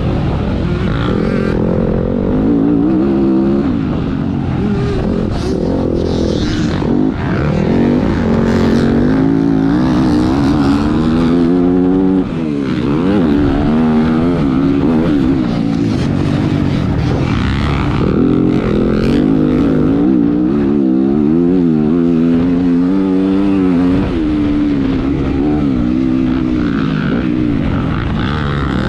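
Motocross dirt bike engine ridden hard on a track, loud throughout, its pitch climbing and dropping over and over as the throttle is opened and shut through the turns and jumps.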